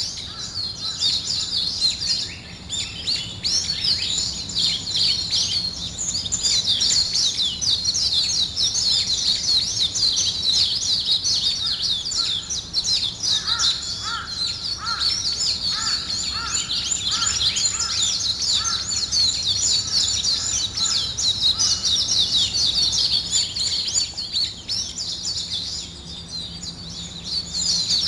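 A morning chorus of many small birds twittering in dense, overlapping high-pitched chirps. Partway through, a lower note repeats about twice a second for several seconds.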